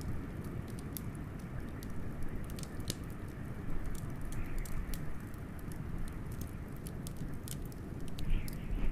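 Wood fire crackling with scattered sharp pops over a steady rush of howling wind; the wind swells in a deeper gust near the end.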